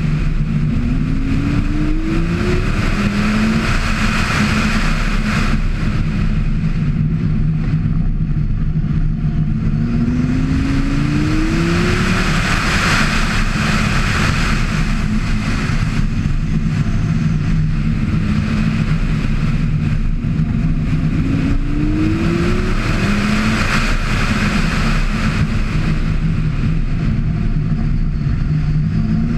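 Lamborghini Gallardo V10 engine running hard, accelerating again and again: its pitch climbs for a second or two at a time, several times, over a steady rush of noise.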